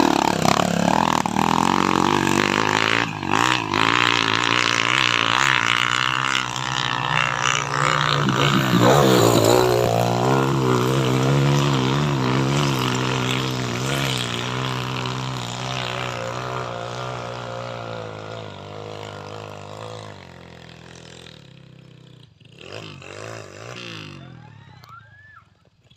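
Off-road trail motorcycle engine revving, then running steadily while its sound gradually fades over about twenty seconds. A brief rise of engine sound comes near the end.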